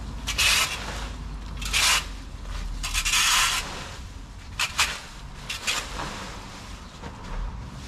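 Irregular bursts of rustling and scraping, about five in all, as shrub branches and foliage are handled during hard pruning.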